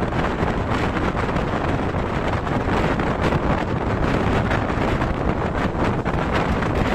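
Express train running at speed, heard from its open door: steady noise of the wheels on the rails, with wind buffeting the microphone.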